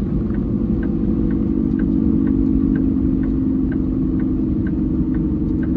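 Peterbilt 389 semi truck's diesel engine running steadily while driving, heard inside the cab as a low drone, with a light, even tick about twice a second.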